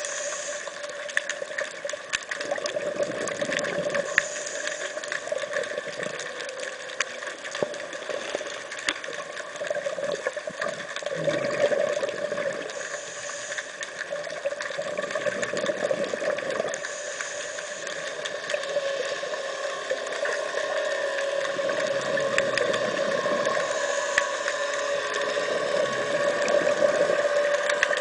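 Underwater sound during a scuba dive: a diver's regulator breathing, with bubbling exhalation swells every few seconds over a steady hum.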